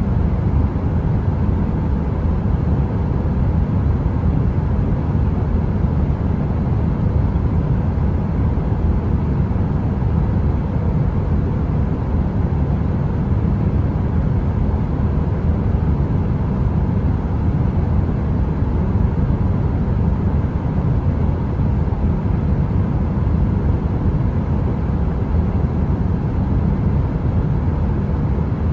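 Steady, deep rushing noise of a heater running, even like brown noise, with a faint steady hum above it. It does not change at all and has no crackle or clicks.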